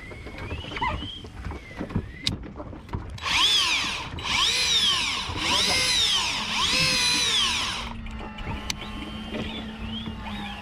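Electric fishing reel motor whining as it winds in line, its pitch rising and falling about once a second for some four seconds from about three seconds in. A fainter steady hum follows.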